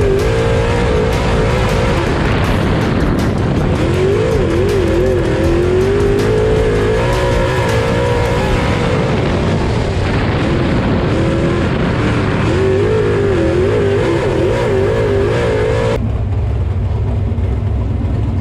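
Race car engines running on track, with engine pitch rising and falling, under background music.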